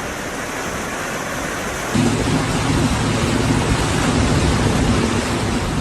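Heavy rain pouring down in a steady hiss. It grows louder about two seconds in, with a low hum underneath.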